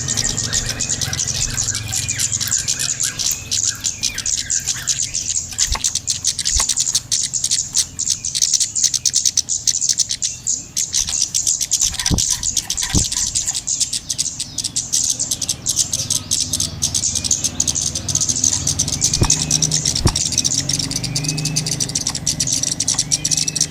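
Lure recording of a kamade (cici geni) bird: a continuous, rapid, high-pitched chattering trill, with a few short arching chirps mixed in at the start and again in the second half.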